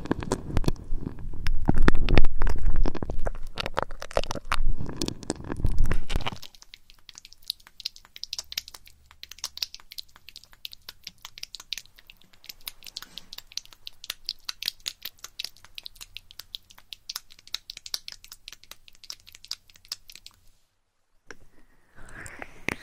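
Close-up ASMR trigger sounds made right at the ear of a 3DiO binaural microphone. About six seconds of heavy, muffled rubbing against the mic give way to a long run of fine, rapid crackling and scratching, which stops shortly before the end.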